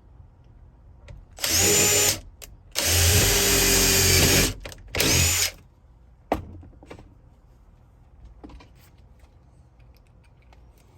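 Cordless drill running in three short bursts, the first and last starting with a rising whine, followed by a single sharp click.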